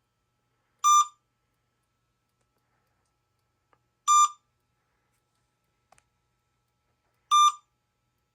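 Short electronic beep repeating three times, about every three seconds, each one a brief, clear high tone; two faint ticks fall in between.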